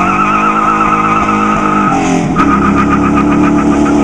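2001 Mustang Bullitt 4.6-litre V8 running hard under acceleration, with a warbling tyre squeal over it. About halfway the engine note and the squeal break off briefly, as at a gear change, then the engine climbs again.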